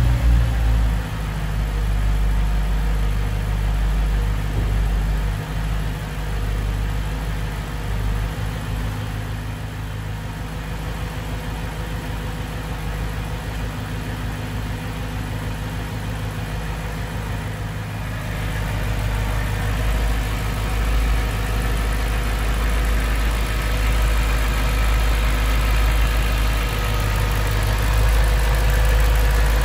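BMW E92 M3's S65 4.0-litre naturally aspirated V8 idling steadily after a cold start, heard with the bonnet open. It grows somewhat louder toward the end as the microphone gets closer to the engine.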